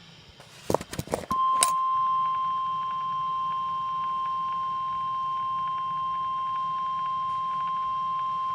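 NOAA Weather Radio warning alarm tone: a single steady beep near 1 kHz (the 1050 Hz alert tone) starting about a second in, after a few sharp crackles. It signals that a new severe weather warning is about to be broadcast.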